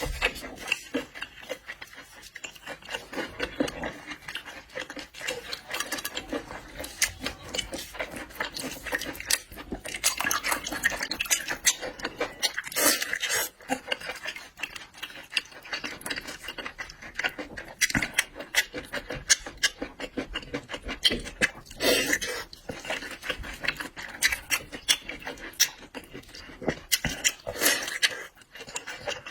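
Close-miked seafood eating: a dense, irregular run of clicks and crackles from shells and utensils being handled, along with chewing.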